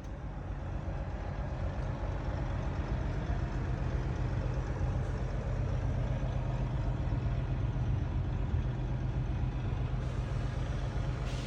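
Heavy diesel semi-truck engine idling steadily with a low, even hum that rises in level over the first second and then holds.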